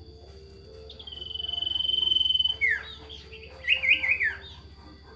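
A sirtu bird calling. It gives one long, even, trilled note that swells for about a second and a half, then a quick run of rising and falling whistled notes.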